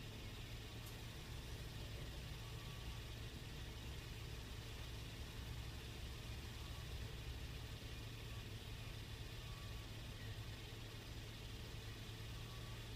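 Suzuki car's engine idling, heard from inside the cabin as a steady low hum.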